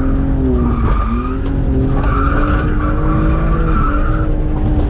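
Drift car sliding through a corner: its engine held high in the revs, with a dip in pitch about a second in, while the tires squeal.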